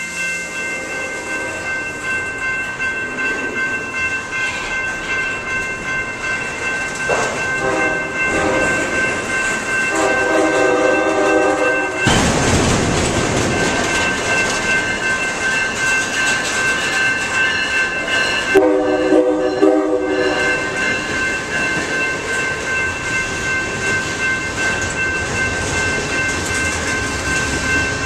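Freight or passenger train rolling through with steady rail noise and high ringing tones, while a diesel locomotive horn sounds three times, the last two blasts each lasting about two seconds.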